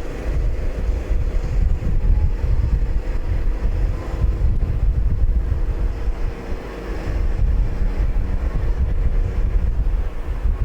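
Wind buffeting the microphone in uneven gusts, with a faint steady engine drone underneath.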